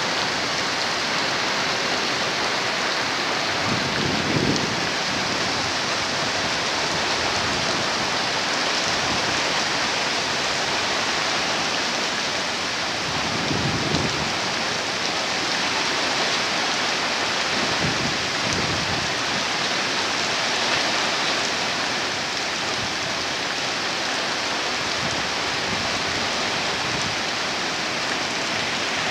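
Heavy monsoon rain pouring steadily, a dense even hiss, with a few brief low gusts of wind rumbling through.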